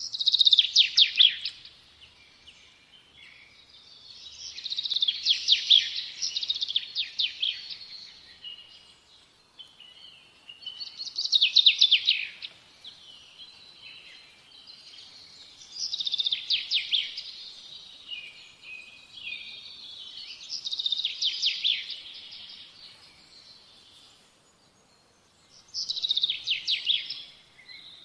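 A songbird singing in repeated phrases of quick, high notes, each phrase a second or two long, with pauses of a few seconds between them.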